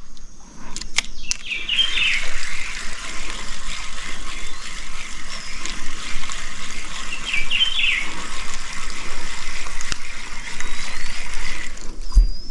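A bird sings a short chirping phrase twice, about five seconds apart, over a steady hiss.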